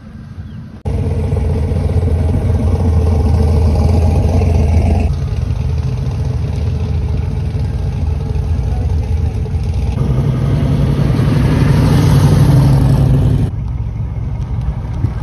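Classic muscle-car engines running loud and low as cars roll past. The engine note starts abruptly about a second in, changes sharply around five seconds, rises and grows louder later on, then drops near the end.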